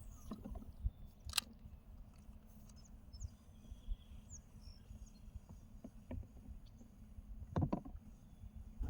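Outdoor lakeside ambience: a steady low rumble with faint high bird chirps, broken by two sharp clicks, one about a second and a half in and one near the end.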